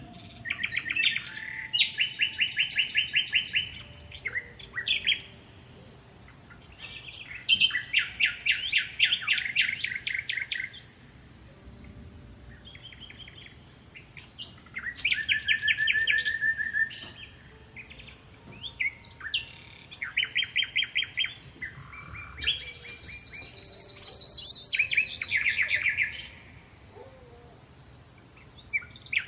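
Songbirds singing: a series of rapid trilled phrases, each one to three seconds long, separated by short pauses, with a faint steady high-pitched tone underneath.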